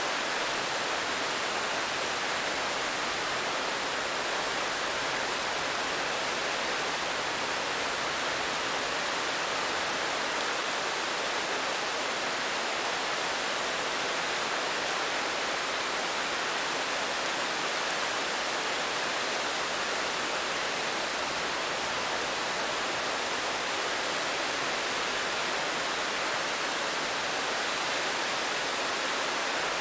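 Steady rain falling, a constant even hiss with no single drops standing out.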